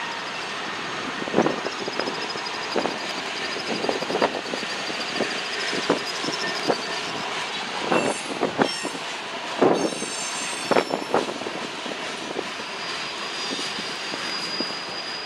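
Freight train rolling past: steady rolling noise, with wheel flanges squealing in a high, wavering tone and irregular clanks and knocks from the cars.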